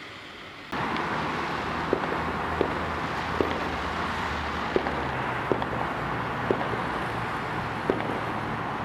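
A road vehicle driving, with engine and road noise that cut in suddenly under a second in, and a sharp regular click about every three-quarters of a second.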